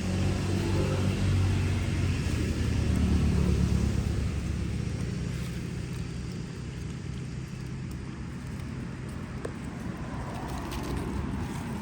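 A motor vehicle's engine running, loudest for the first four seconds and then fading away.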